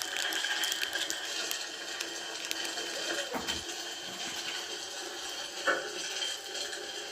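Wood fire crackling in a fireplace: a steady hiss with many small, irregular pops, and one louder snap about three-quarters of the way through.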